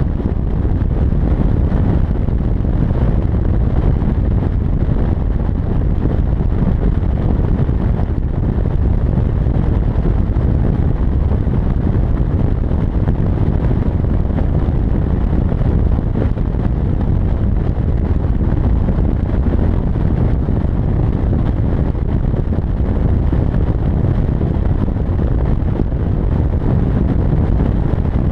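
Steady road and wind noise from a pickup truck towing a heavy trailer at speed, with wind rumbling on the microphone.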